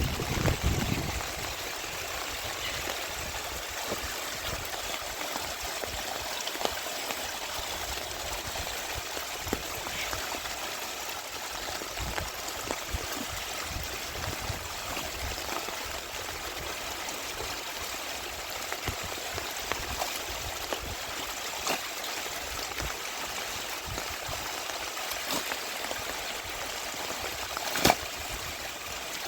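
Steady rain with water running and trickling: an even hiss with scattered drip clicks, and one louder tap near the end.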